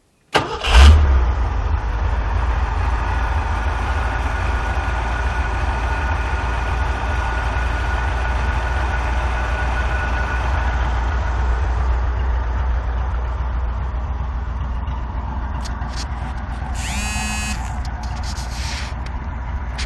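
1978 Jeep CJ-5's 304 AMC V8 running steadily at idle, a deep, even rumble. It comes in abruptly about half a second in, and there is a brief high squeak a few seconds before the end.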